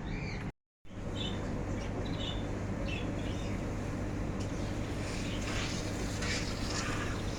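Small cage birds chirping with short, high calls over a steady low hum. The sound drops out completely for a moment less than a second in.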